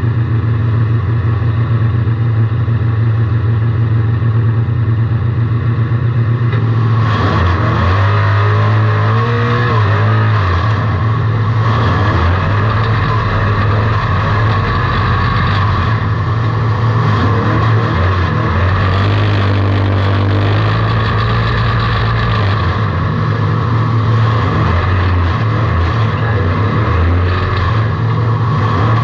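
Race car engine heard from inside the car, running hard at a steady speed. About seven seconds in it becomes louder and rougher, and its pitch rises and falls with the throttle.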